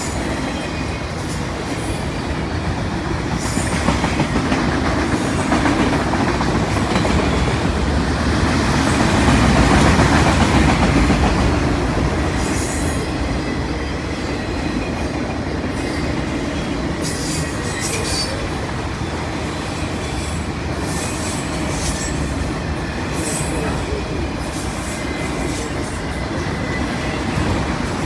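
CN freight train cars rolling past on steel wheels and rails, a steady rumble and clatter that swells about ten seconds in. From the middle on, short high-pitched wheel squeals come through now and then.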